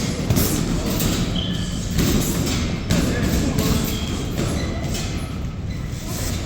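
Boxing sparring in a ring: repeated thuds and knocks, with a few sharper hits about a third of a second, two seconds and three seconds in, over background music.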